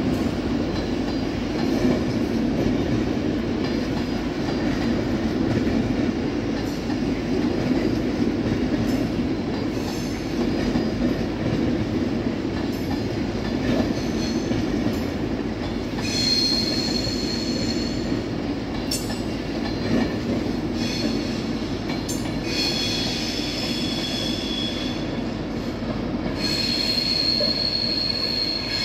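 Avanti West Coast Class 390 Pendolino train running slowly through the station, its wheels rumbling steadily on the rails with occasional clicks over joints. From about halfway, high-pitched wheel squeal comes and goes, loudest near the end.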